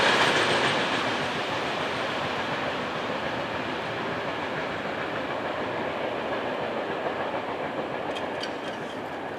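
Freight train wagons rolling over the rails with a steady noisy rumble that fades over the first couple of seconds, then holds.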